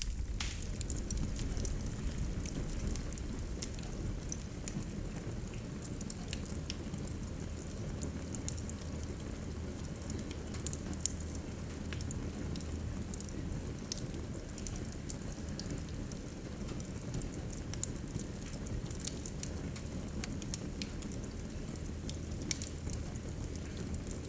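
Wood fire burning in a fireplace, with a steady low rush of flame and many irregular sharp crackles and pops.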